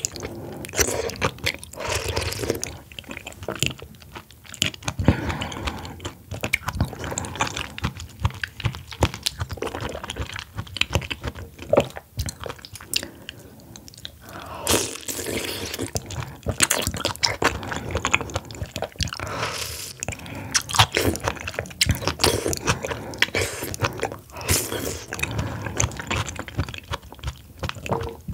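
Close-miked eating of oysters and raw oyster cold soup: steady wet chewing and crunching, with irregular bites and mouth clicks and a few louder bursts around the middle.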